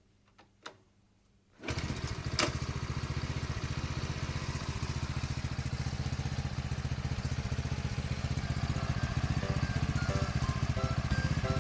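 Chinese 110cc single-cylinder engine in a Cub-style motorcycle idling through an Outstanding 'monaka' clamshell muffler, a steady, even exhaust putter. It comes in suddenly after a near-silent second and a half.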